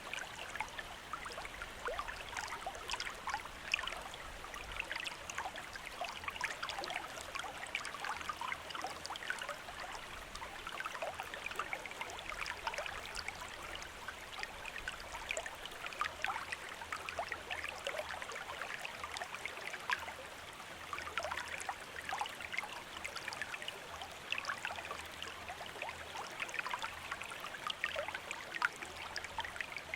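Stream of running water flowing steadily, full of small trickles and splashes over stones.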